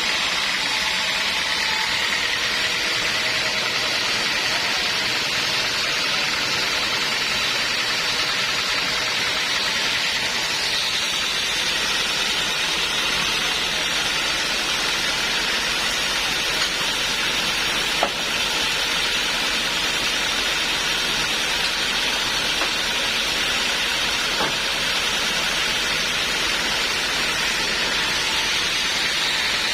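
Homemade band sawmill running with a steady, even hiss, with one sharp click about 18 seconds in.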